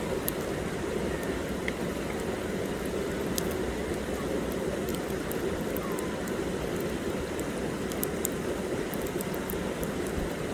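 Campfire burning: a steady low rush with scattered sharp crackles and pops from the burning wood.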